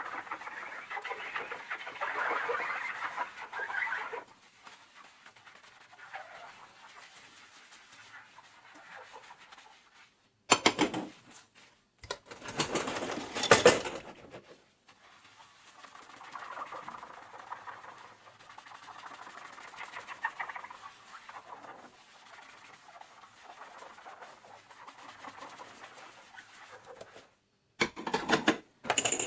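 Dishes being hand-washed at a kitchen sink: a soapy sponge scrubbing and squeaking against dishware in quick, fluttering strokes. A few short, loud bursts of rushing noise break in about a third of the way through and again near the end.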